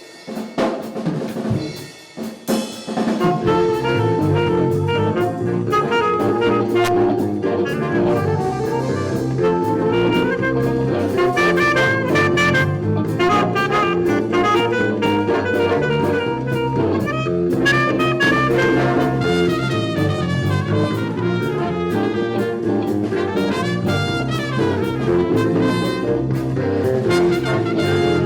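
A school band playing a jazzy tune, with brass and drum kit. It plays softer and more sparsely for the first couple of seconds, then the full band comes in.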